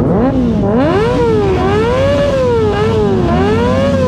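High-revving motorcycle engine repeatedly revved up and let fall, its pitch rising and dropping about four times, over another engine idling steadily.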